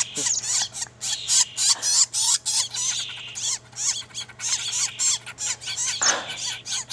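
Young flickers giving harsh, raspy calls in rapid succession, several a second without a break, with a brief louder rustling noise about six seconds in.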